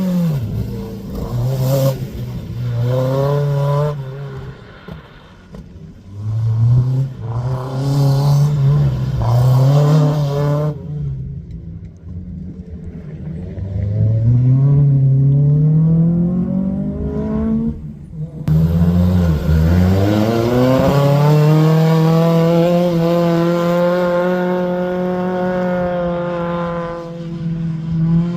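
A rally car's engine being driven hard, revs climbing and dropping back several times as it changes up through the gears. About eleven seconds in it goes quieter off the throttle. It then pulls up through the gears again and holds high, steady revs before easing off near the end.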